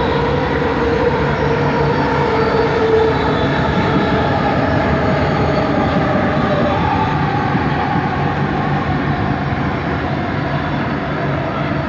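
Bombardier Innovia ART 200 train running, heard from inside the car: a steady running rumble with a low hum and a faint motor whine that shifts slightly in pitch, from the train's linear induction motors.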